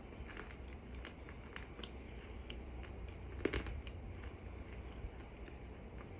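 Starch being chewed: scattered soft crunches and clicks in the mouth, one louder crunch about halfway through, over a steady low hum.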